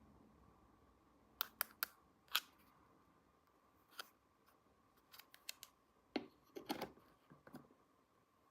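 Small plastic toy pieces clicking and tapping against each other as they are handled: a few separate sharp clicks, then a quicker run of clicks and light rattles.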